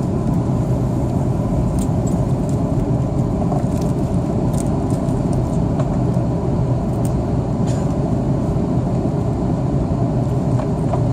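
Steady cabin drone of an Airbus A330-300 airliner in flight: engine and airflow noise that stays level throughout, deepest in the low range, with a faint steady whine above it.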